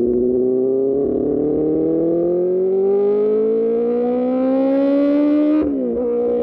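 QJMotor SRK600 inline-four motorcycle engine through an Austin Racing exhaust, pulling hard with revs climbing smoothly in one gear. About five and a half seconds in the pitch drops sharply at an upshift, then holds steady.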